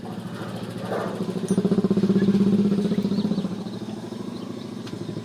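Single-cylinder engine of a Hero Glamour motorcycle running, revved up about a second in and settling back to a lower speed by about four seconds, after its timing chain adjuster was replaced to cure a chain rattle.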